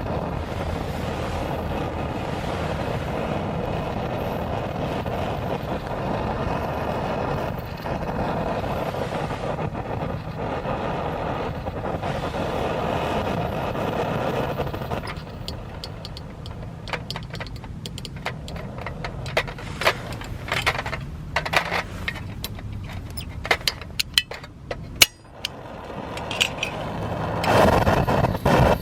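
Phoebus 725 pressure stove burner running with a steady rushing roar. About halfway through it drops to a quieter level, with scattered sharp clicks and taps, then rises back to full roar near the end.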